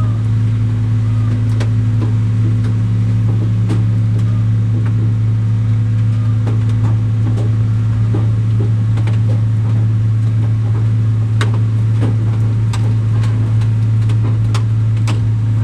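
Large diesel engine running at a steady speed, a loud unchanging hum, with scattered sharp clicks and knocks over it.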